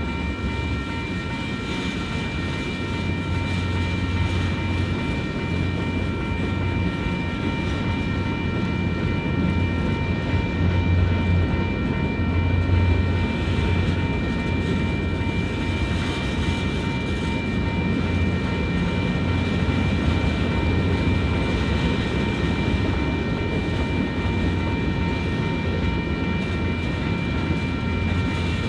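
Freight cars of a manifest freight train rolling past in a steady rumble that swells and eases, with several steady high-pitched tones held throughout.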